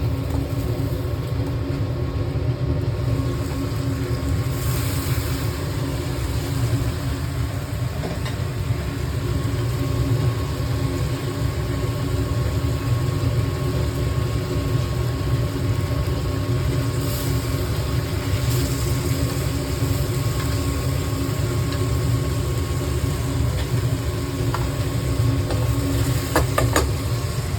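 Steady mechanical hum: a constant low rumble with several unchanging pitched tones, as from a motor running.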